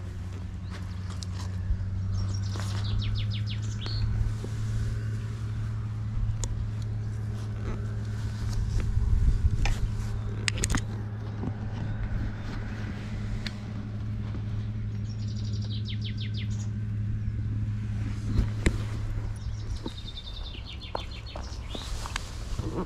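A songbird sings a short descending trill three times over a steady low hum, with scattered light clicks.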